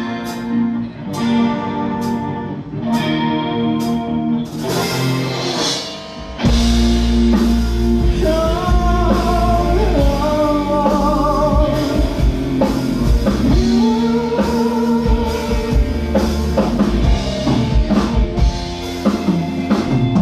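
Live band playing an instrumental passage. Repeated chords open it, then the full band with bass and drums comes in about six seconds in, and a melodic lead line follows.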